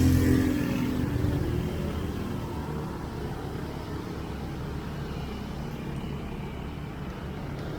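A motor vehicle's engine passing close, loud at first and fading within the first second or two, then the steady low rumble of street traffic.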